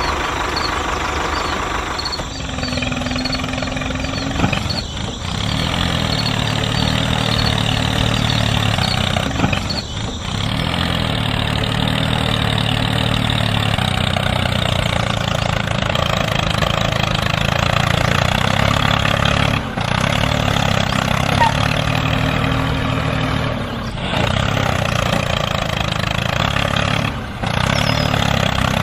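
Tractor engine running steadily, with a few brief dips in level.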